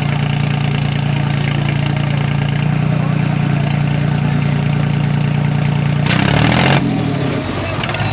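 Diesel engines of the Swaraj 855 and Sonalika 50 tractors running steadily under heavy load, straining against each other in a tug-of-war pull. About six seconds in there is a brief loud rush of noise, and the engine sound drops off near the end.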